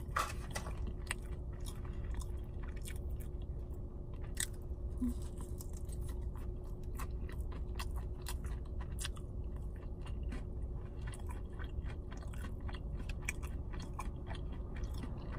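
A person chewing a mouthful of food close to the microphone, with many small mouth clicks throughout, over a steady low hum.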